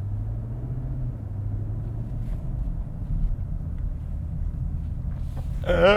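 BMW M850i's 4.4-litre V8 running at low speed in its first minutes after a cold start, heard from inside the cabin as a steady low rumble with a low drone that rises slightly over the first couple of seconds and then holds.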